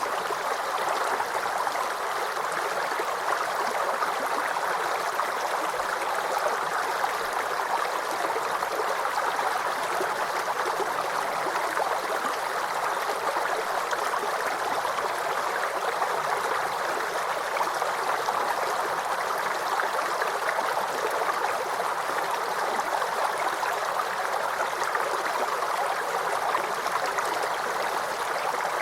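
Shallow forest creek babbling and gurgling over stones, a steady, unbroken rush of running water.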